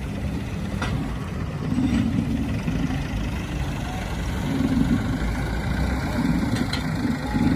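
Heavy vehicle engine idling with a steady low rumble, its note swelling unevenly now and then.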